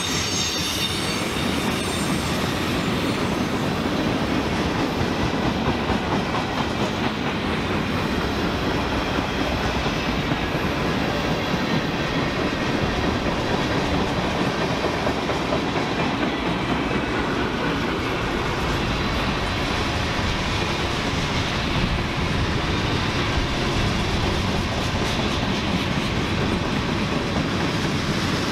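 Freight train cars rolling past on the track, wheels clicking steadily over the rail joints, with a faint wheel squeal in the first couple of seconds.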